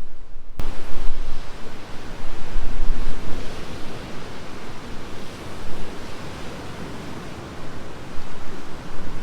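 Strong gusting wind buffeting the microphone: a loud rushing noise with a heavy low rumble that swells and eases. It cuts in abruptly just under a second in.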